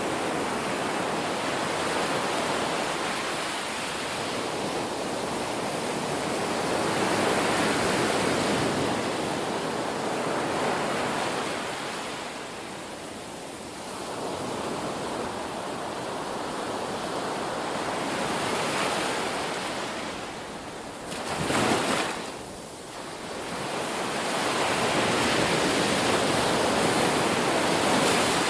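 Ocean surf: waves washing in and drawing back in slow swells of hiss. About three quarters of the way through, one wave breaks with a short, sharper, louder crash.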